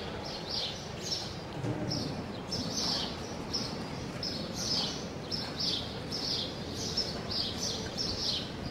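Small birds chirping over and over, a few short high chirps a second, over a steady background hiss.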